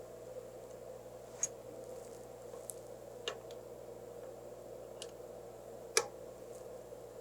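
Steady low machine hum with four separate sharp clicks, the loudest near the end, like small tools being set down or handled on the machine.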